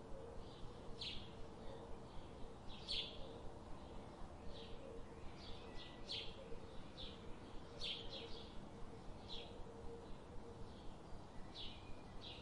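A small bird chirping repeatedly, short high chirps coming a couple of times a second.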